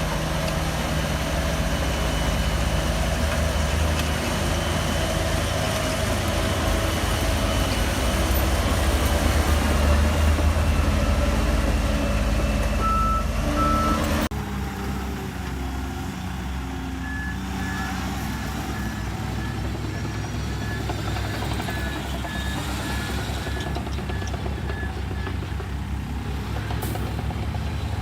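Heavy diesel earthmoving machinery at work: a bulldozer's engine running under load, growing louder toward the middle, then cutting abruptly to a quieter engine. In the second half a reversing alarm beeps at a steady pace for about eight seconds.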